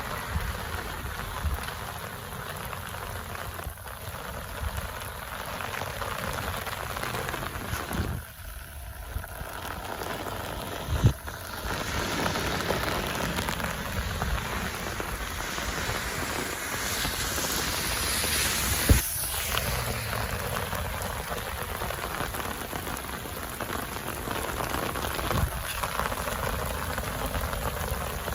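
Steady rain falling on a surface, a continuous hiss, with a sharp knock about 11 seconds in and another about 19 seconds in.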